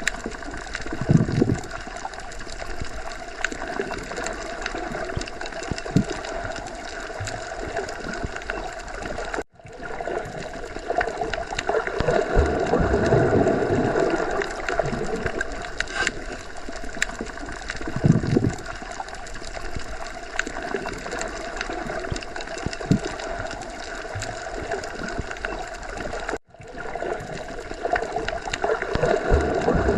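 Underwater sea ambience: a steady muffled wash of water with gurgling, bubbling surges and scattered small pops. It cuts out for an instant twice, about a third of the way in and again near the end.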